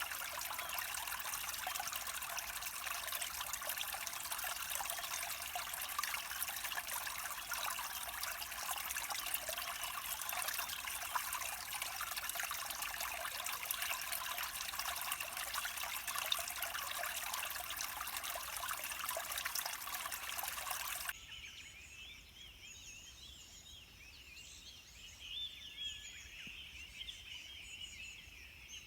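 Stream water flowing and babbling steadily, which cuts off suddenly about three quarters of the way through; after that, birds chirping and calling over a quiet background.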